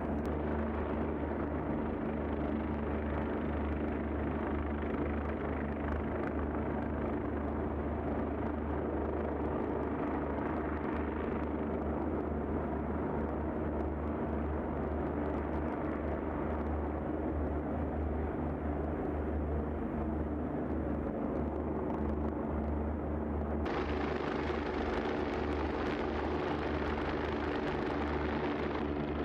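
Helicopter running steadily overhead, a continuous low rotor and engine drone. The sound turns suddenly brighter and hissier about 24 seconds in.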